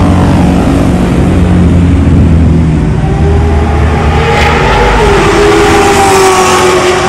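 Car engine running, a steady low note with a higher tone that rises about four seconds in and drops back about a second later.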